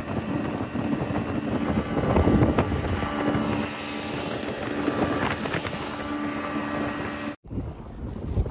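Motorboat running at speed, a steady engine drone under the rush of water against the hull and wind on the microphone. It cuts off suddenly about seven seconds in, and quieter wind and water follow.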